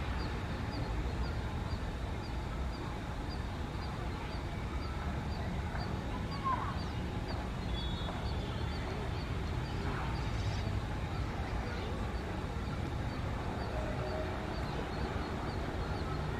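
Scattered short bird calls over a steady low rumble, with a faint high ticking repeating about twice a second.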